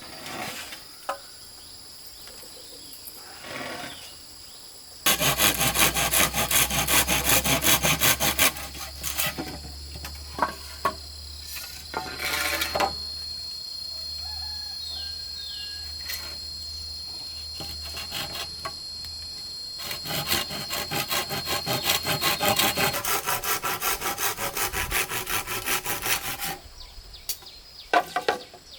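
Hand saw cutting bamboo in two long spells of quick, even strokes, with scattered knocks and clatter between them. Insects hum steadily in the background.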